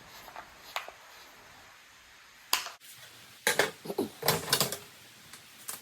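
Lid being fitted back onto a Shindaiwa hedge trimmer: separate sharp clicks and knocks, a louder one about two and a half seconds in, then a quick run of clicks between three and a half and five seconds.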